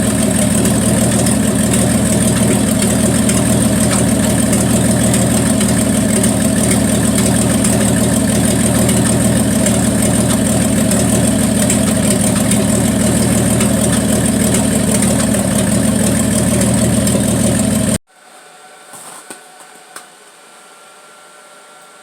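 1974 Plymouth Duster's slant-six engine idling steadily with a miss, which the owner puts down to a valve train that is too tight, then shut off suddenly about eighteen seconds in, leaving a low hiss and a few faint clicks.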